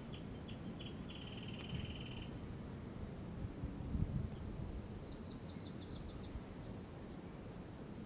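Small birds singing: a few short chirps that run into a fast trill, then a quicker, higher twittering series a few seconds later. Under them is a steady low outdoor rumble, with a brief low bump about halfway through.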